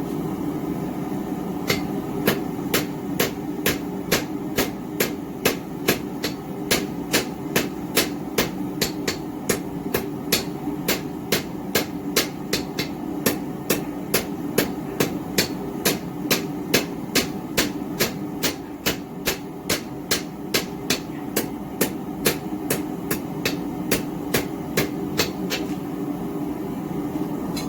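Hand-forging: a roughly 2-pound cross-peen hammer striking hot round steel stock at a steady pace of about two blows a second, flattening and drawing it out. The blows start about two seconds in and stop shortly before the end, over a steady background rush.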